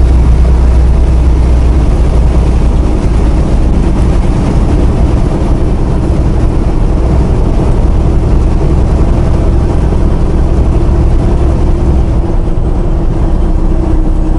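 Steady engine drone and road rumble of a semi-truck heard from inside the cab while cruising, deep and unchanging.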